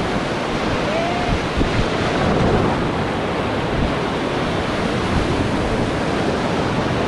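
Steady rush of river whitewater running through rapids, heard from a raft on the water, with wind buffeting the microphone.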